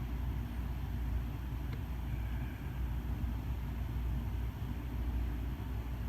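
Casablanca Spirit of Saturn ceiling fan coasting down with its power off, a steady low rumble. The long, smooth spin-down is a sign of good bearings.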